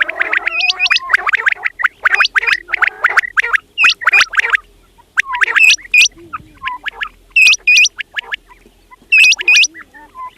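Quails calling: a busy run of quick, overlapping chirps in the first half, then sharper three-note phrases repeated with short pauses between.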